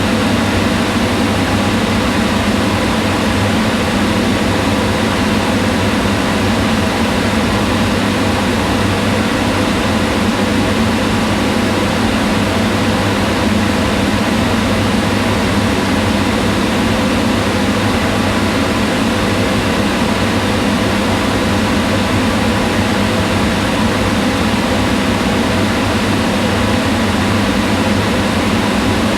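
Kitchen range hood exhaust fan running steadily, a constant whir of rushing air with a low hum and no change in speed.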